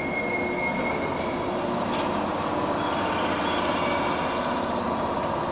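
JR 115-series electric train creeping along the platform as it comes to a stop, with a steady low running and brake noise. A thin high squeal dies away about a second in.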